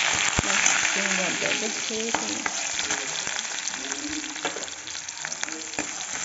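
Chicken and onion pieces sizzling in hot oil in a steel kadai, stirred with a steel ladle that clicks and scrapes against the pan many times.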